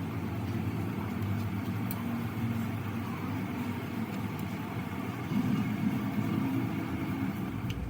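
An engine idling steadily, a low even hum that grows slightly stronger about five seconds in.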